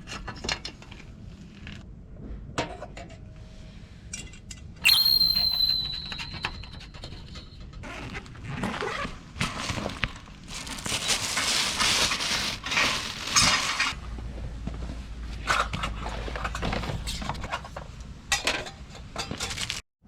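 Dishes and utensils clinking and knocking. About five seconds in, one sharp clink rings on for a couple of seconds. Later comes a few seconds of louder rustling noise, then more scattered knocks.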